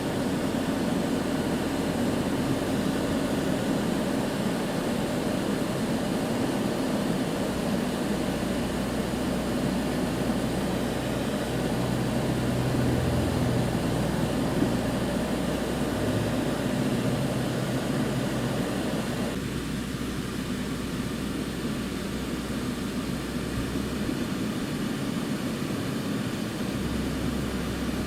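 Steady vehicle rumble and road noise, with a low engine drone that shifts to a new pitch a few times.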